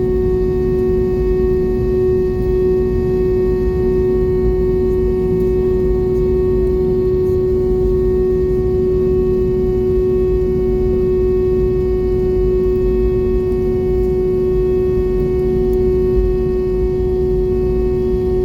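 Steady cabin noise inside an Airbus A320 on the ground: a low rumble with a steady droning tone and fainter higher whines over it.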